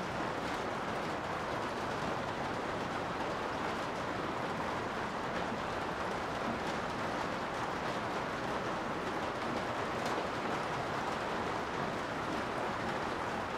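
Steady rain heard from inside a garage, an even hiss with a few faint sharper taps of drops now and then.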